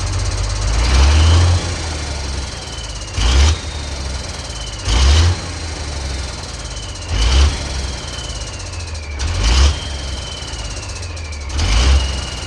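Ford D-series 1314 turbocharged truck engine running, revved in short bursts about every two seconds, each rev followed by a turbo whistle falling in pitch.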